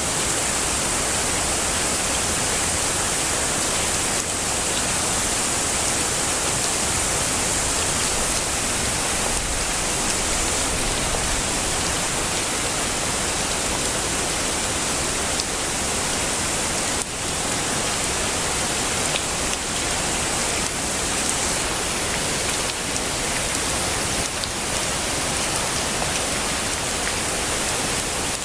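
Steady heavy rain: a dense, even hiss, brightest in the treble, with a few sharper drop ticks scattered through.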